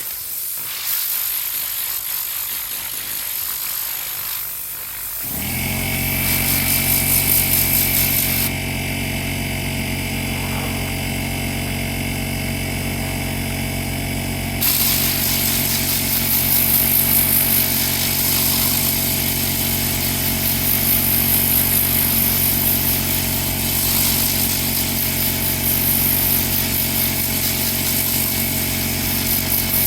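A hiss, then an electric motor starts about five seconds in and runs steadily at one pitch under a strong hiss, typical of a detailing machine such as a vacuum or compressor.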